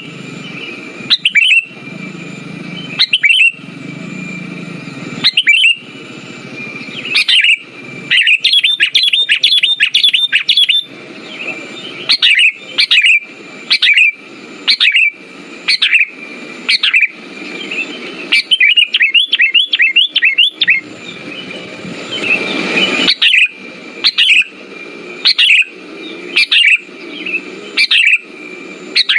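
Sooty-headed bulbul (kutilang) calling: loud short notes about every second or two, with two rapid chattering runs, about eight and eighteen seconds in. It is a lure call meant to draw a silent bulbul into singing.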